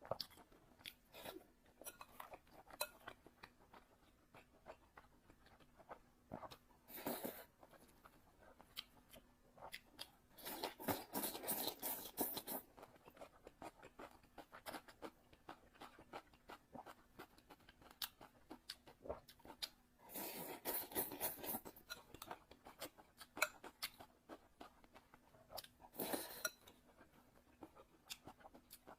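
Close-miked chewing and mouth sounds of a person eating, with many small clicks and several louder stretches of chewing, over a faint steady hum.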